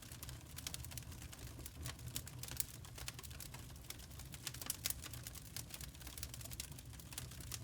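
Wood fire crackling, with dense irregular pops and snaps over a steady low hum.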